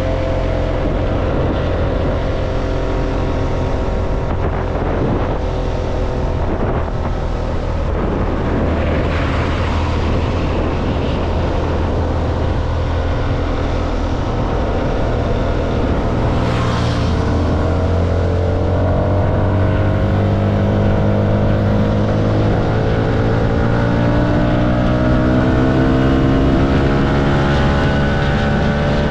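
CFMoto motorcycle engine running under way, heard from the rider's seat; its pitch rises steadily through the later part as the bike accelerates.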